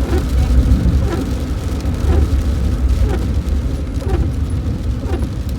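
Car road noise heard from inside the moving car: a steady low rumble, with faint short chirps recurring about once a second.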